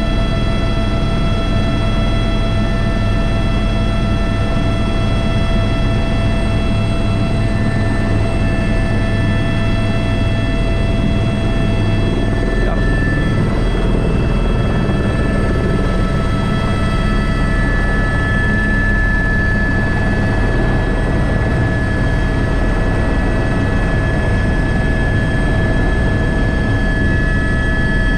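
Airbus H125 (AS350 B3) helicopter running in flight: a steady turbine whine over the low, dense thrum of the rotors. About halfway through, one of the high whine tones shifts slightly higher for a while and then settles back.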